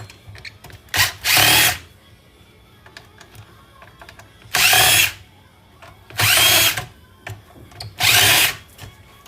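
Power drill-driver fitted with a Torx bit running in four short bursts of under a second each, undoing screws. Its whine rises as the motor spins up in each burst.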